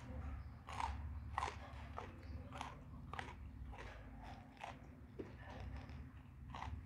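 Chewing and crunching a mouthful of raw jengkol beans and rice, with crisp crunches coming about twice a second in a steady rhythm.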